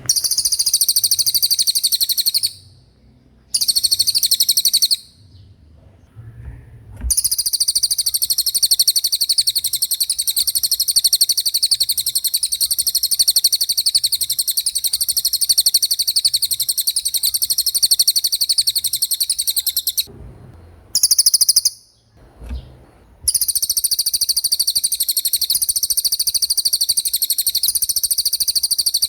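Cililin songbird singing its fast rolling trill: a very high, rapidly pulsing song in long unbroken runs, stopping briefly three times.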